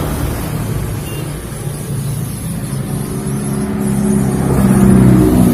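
Road vehicle engine running while on the move, with a steady rushing noise over it; it grows louder over the last two seconds.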